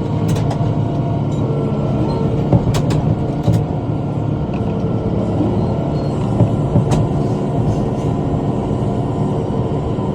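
Tractor engine running steadily under load while mowing with a rotary cutter (bush hog). A few sharp clicks cut through the drone, near the start, around three seconds in and around seven seconds in.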